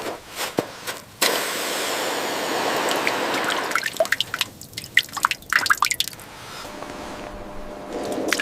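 Water pouring for a couple of seconds, then a quick run of dripping drops.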